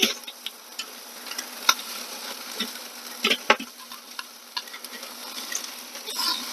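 Bone-in, skin-on chicken thighs sizzling over hot charcoal on a kettle grill, their fat crackling, with a steady hiss and several sharp clicks.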